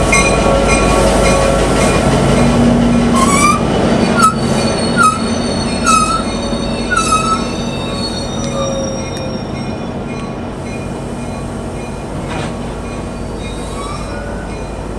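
Passenger train rolling past on the rails with a dense rumble and steady high-pitched wheel squeal. A run of short squeaks and clicks comes between about three and seven seconds in, and the sound slowly fades over the second half.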